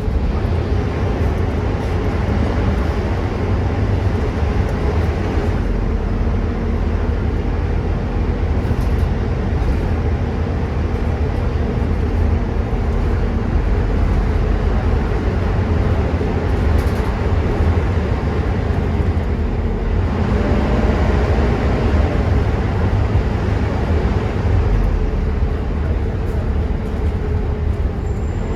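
Volvo B9TL double-decker bus under way, heard from on board: a steady, heavy engine and drivetrain rumble with a faint whine over road noise.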